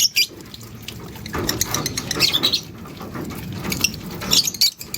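African lovebirds chirping and chattering: short, high, squeaky chirps in bursts, over a steady hiss.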